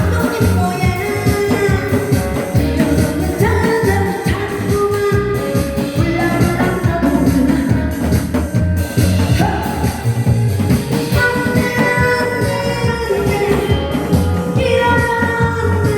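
Singing over loud backing music with a steady beat.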